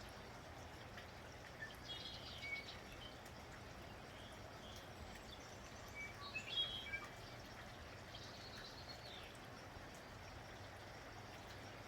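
Steady, faint rain with small birds chirping over it in a few short bursts of high notes: about two seconds in, most loudly around six to seven seconds, and again near nine seconds.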